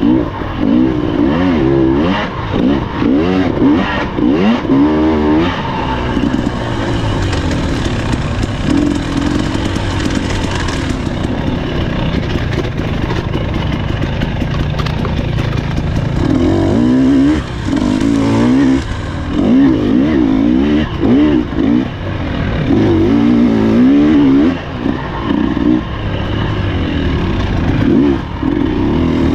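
Husqvarna TE300 two-stroke dirt bike engine revving up and down over and over as the throttle is worked through the trail, with some sharp knocks in the first few seconds.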